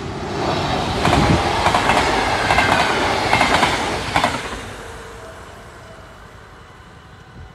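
Yellow NS double-deck electric train passing close by at speed, wheels clattering over the rails with rapid clicks. It builds quickly, stays loud for about four seconds, then fades away as it leaves.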